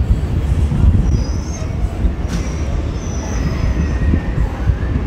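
Local electric train rolling slowly along a station platform, with a steady low rumble of wheels on rail. High wheel squeals come in twice, at about one second and again from about two to three and a half seconds in.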